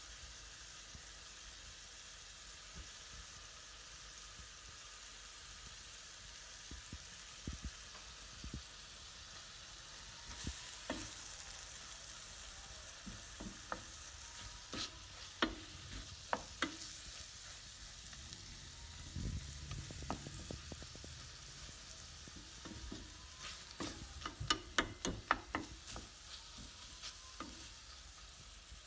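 Chicken and sliced onion frying with a gentle, steady sizzle in a stainless steel pan, stirred with a wooden spoon that knocks and scrapes against the pan in short runs, mostly about halfway through and again near the end.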